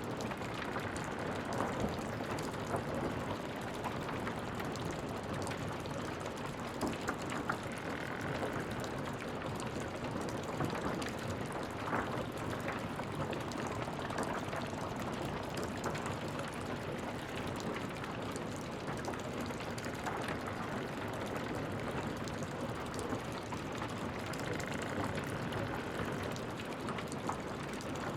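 Wood fire crackling steadily, a dense run of small snaps and pops over a low hiss, with a louder pop now and then.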